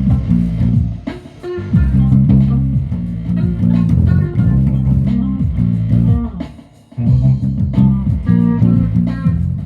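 Guitar music with a strong bass line, pausing briefly twice, about a second in and near seven seconds in.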